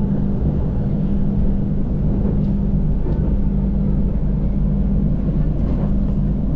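Passenger train running at speed, heard from inside the carriage: a steady rumble with a constant low hum.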